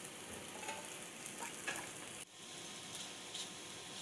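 Faint, steady sizzle of litti frying in a little oil in a nonstick appe pan, with light handling as the pieces are turned over. The sizzle drops out suddenly for a moment about two seconds in.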